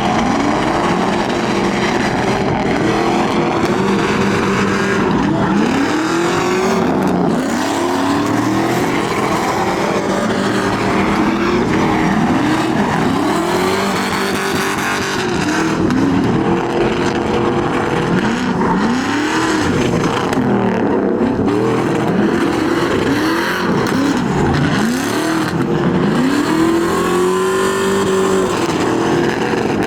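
A vehicle engine, most likely a truck's, revving up and dropping back over and over, a rise and fall every second or two, over a continuous rushing noise.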